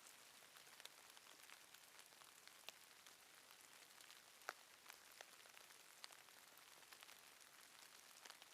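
Faint light drizzle: a soft, even rain hiss with scattered single drops ticking now and then.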